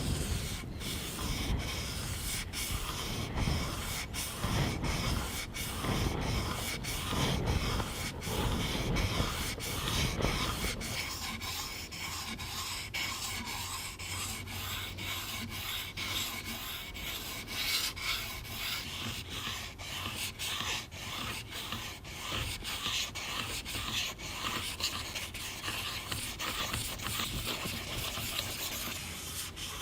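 Abrasive rubbing of a rusty knife blade as the rust is sanded off, continuous, with many short clicks along the way.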